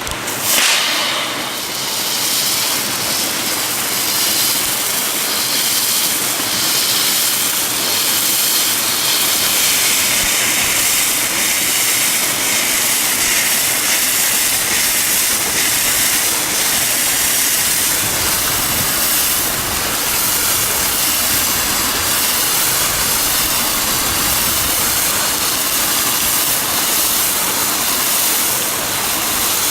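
Pyrotechnic flare burning with a loud, steady hiss, after a sudden burst about half a second in.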